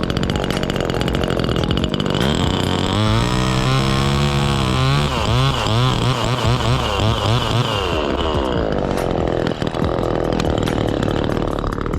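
Gas chainsaw running and cutting a face cut (notch) in a black maple, the engine pitch rising and falling with the load through the middle of the cut and steadier either side.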